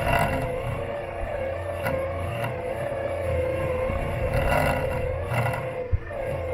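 Robot lawn mower running over grass: a steady motor whine that wavers slightly in pitch over a low rumble from the chassis, with a sharp knock near the end.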